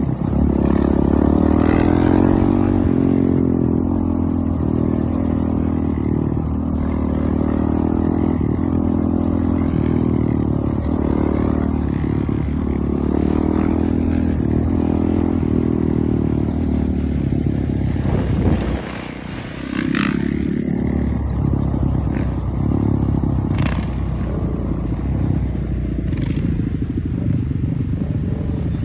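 Dirt bike engine running and revving up and down, with a brief drop in engine noise about two-thirds of the way through and a few sharp clicks near the end.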